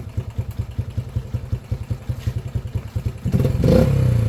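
Yamaha Raptor 80 ATV's single-cylinder engine idling with an even putter, then revving up a little over three seconds in as the throttle is opened. The freshly fitted carburetor keeps the idle set slightly low.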